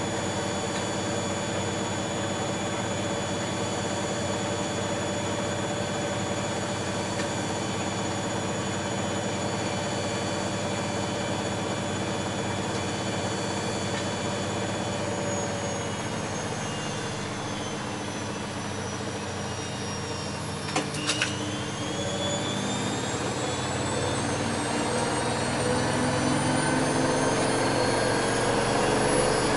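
Bosch Maxx WFL 248Y washing machine running with its motor and drum at speed, a steady whine over a hum. Midway the whine falls in pitch as the drum slows. A few sharp clicks follow, then the whine rises again and grows louder as the drum speeds back up.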